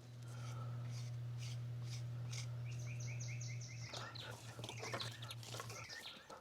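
A steady low hum that stops near the end. About three seconds in, a bird gives a quick run of chirps.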